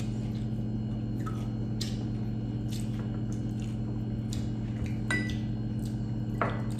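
Close-miked eating: crispy fried chicken skin and bagnet being chewed, with scattered short crunches and mouth clicks over a steady low hum.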